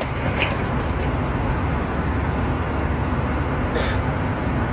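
Steady low rumble of an airliner's cabin noise, with a brief faint higher rustle about four seconds in.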